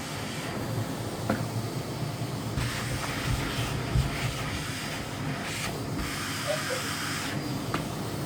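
Miele CX1 Blizzard cylinder vacuum cleaner running steadily, a rushing hiss that brightens and dulls every second or two.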